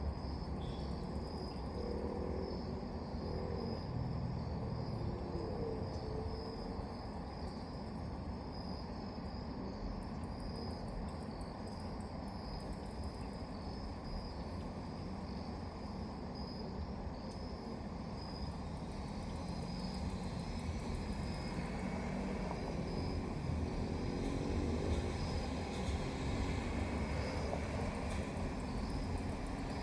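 Crickets chirping in a steady pulsing trill over a low hum of distant traffic, which grows a little louder in the last several seconds.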